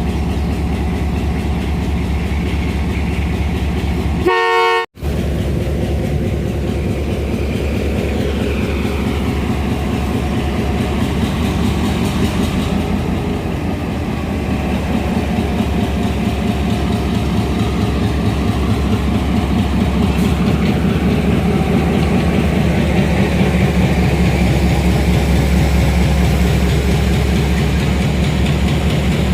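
A heavy diesel engine running steadily with an even low throb, growing a little louder toward the end. A brief horn-like tone sounds about four and a half seconds in.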